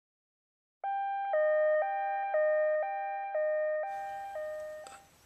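An electronic two-tone signal alternating between a higher and a lower note, each held about half a second, for about four seconds, slowly fading away. It starts after a second of silence.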